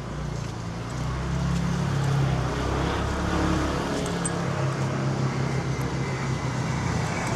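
Street traffic: a motor vehicle's engine running close by, a low steady hum that grows louder about a second in, over the general noise of the road.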